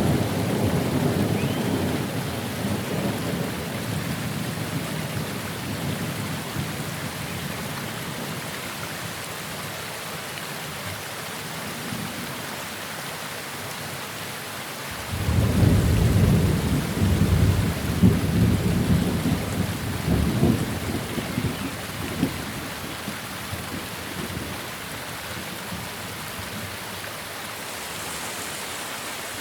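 Steady rain hissing through a thunderstorm. A rumble of thunder fades away over the first several seconds, then a new peal breaks out suddenly about halfway through and rolls on in several swells before dying away.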